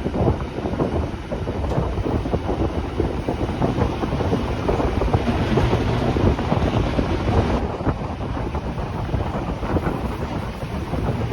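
Wind buffeting the microphone over the steady running rumble of a Rhaetian Railway train. A brighter hiss swells about five seconds in and cuts off sharply a couple of seconds later.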